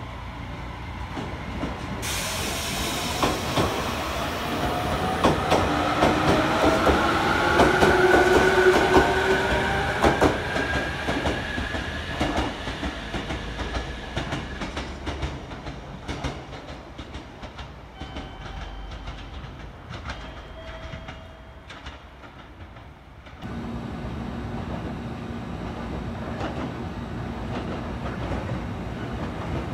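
A JR Kyushu electric commuter train running along the rails, its wheels clicking over the rail joints under an electric motor whine that rises in pitch, loudest about a quarter of the way in and then fading away. After an abrupt cut late on, a steady hum as a JR Kyushu 787 series limited express approaches.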